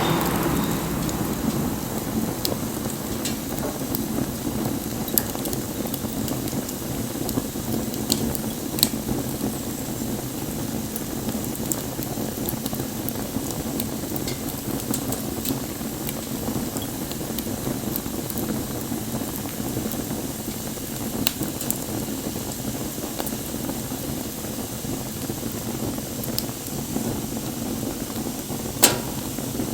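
Wood fire burning with a steady crackle and hiss, broken by a few sharp pops from the burning wood.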